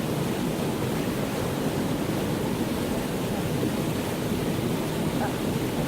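A mountain valley stream rushing steadily, with an even noise and no separate splashes.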